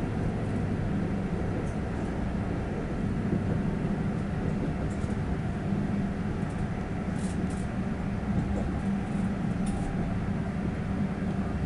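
Steady rumble of a passenger train running, heard from inside the carriage, with a few faint high ticks about seven to ten seconds in.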